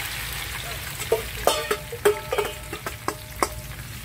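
Chopped tomatoes sizzling as they slide from a stainless steel bowl into hot oil in a wok. From about a second in there are several sharp clinks of the metal bowl knocking against the pan, a few of them ringing briefly.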